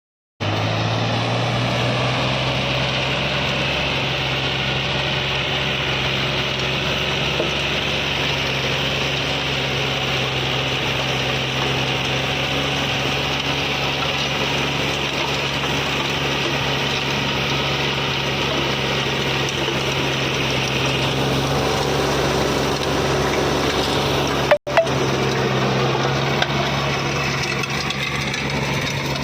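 Captain 28 HP tractor's diesel engine running steadily at an even speed. About three quarters of the way through, the sound cuts out for an instant with a couple of sharp clicks.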